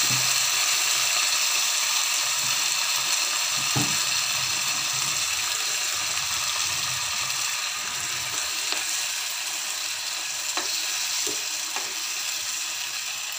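Onion and tomato purée curry base frying in oil in a pan: a steady sizzle that eases slowly, with a few light knocks of a spatula stirring it, mostly in the second half.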